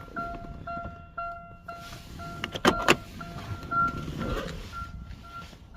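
A car's electronic warning chime beeping over and over at one pitch, like a key-in-ignition or door-open chime, with two sharp clicks close together a little under three seconds in.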